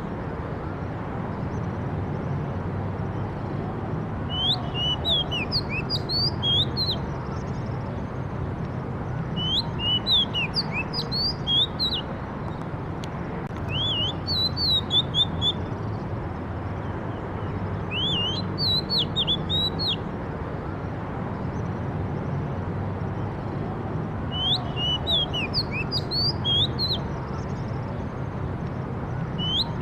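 A songbird singing short phrases of quick chirps and whistles, a phrase every four to five seconds or so, over a steady low background rumble.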